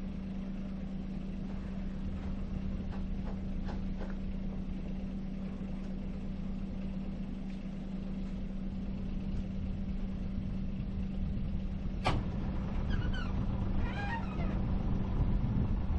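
Sailboat's auxiliary engine running steadily with an even hum. A sharp click sounds about twelve seconds in, followed by a few faint high chirps.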